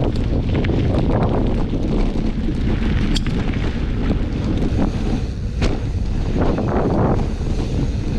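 Wind buffeting a camera microphone on a fast mountain bike descent, with a steady low rumble from the tyres and bike on the trail. A couple of sharp clicks or knocks come through, one a few seconds in and one just past halfway.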